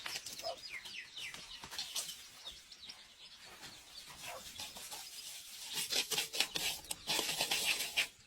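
Birds calling in short, repeated falling chirps. About six seconds in, a louder run of rapid scratchy sounds joins them.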